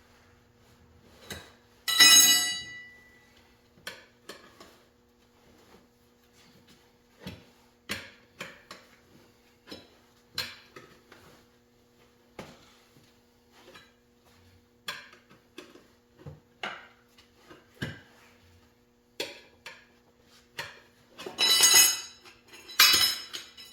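Metal hand tools clinking and knocking against metal motorcycle parts at an irregular pace, with a few louder ringing metal clanks, one about two seconds in and two more near the end.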